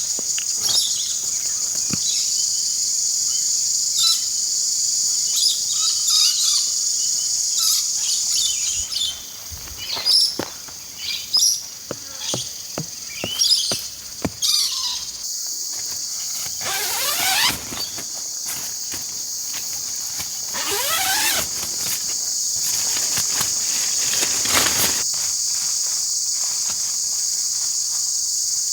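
A steady, high-pitched chorus of insects, crickets or cicadas, drones throughout. Over it come scattered short clicks and brief chirps, and two longer falling sweeps around the middle.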